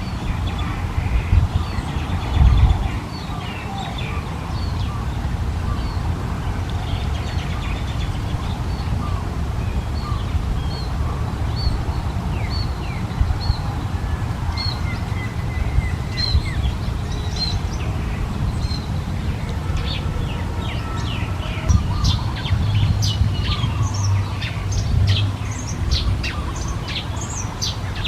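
Small birds chirping and calling in many short, high notes, which become busier and sharper from about two-thirds of the way in, over a steady low rumble.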